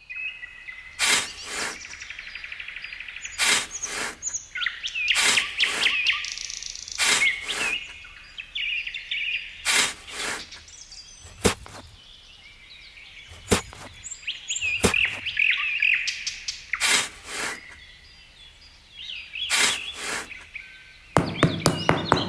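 Small birds chirping and twittering, over sharp taps or knocks that come singly or in pairs every second or two. Music comes in near the end.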